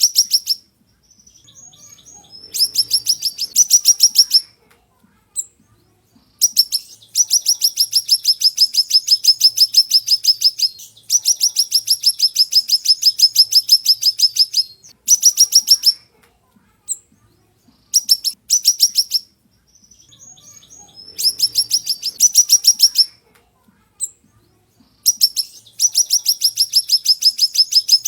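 Siri-siri songbird singing in loud, sharp bursts: rapid runs of about ten high, piercing notes a second, each run lasting one to four seconds, separated by short pauses.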